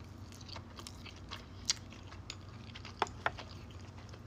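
Close-up mouth sounds of a person chewing sushi: wet smacks and small clicks, with a few sharper ones about 1.7 seconds in and twice near the three-second mark.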